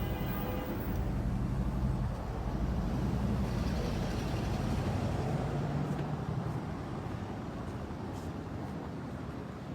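Street traffic: a car engine running nearby with a low rumble, which grows gradually quieter over the last few seconds as it moves away.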